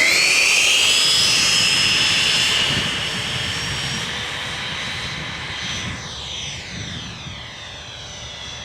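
Electric ducted-fan jet model at full throttle on its takeoff run: a loud, high whine that rises slightly in pitch at the start, holds, then fades steadily as the model pulls away and climbs, with a swishing, sweeping quality near the end.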